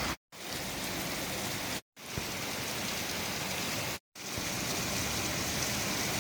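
Steady rain falling hard, broken three times by brief dead silences where the footage is cut.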